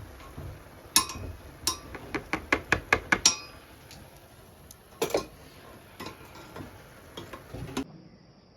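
Metal spoon clinking and knocking against a pot of cooked rice: a quick run of taps, then a few scattered knocks.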